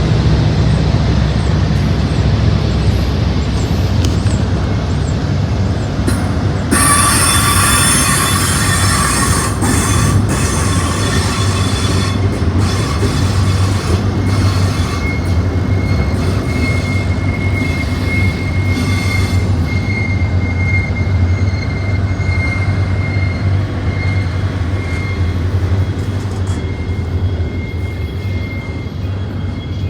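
BNSF intermodal freight train rolling past with a steady low rumble, its wheels breaking into a loud, high-pitched squeal about a quarter of the way in, which settles into a thinner, steady squealing tone for the rest of the time.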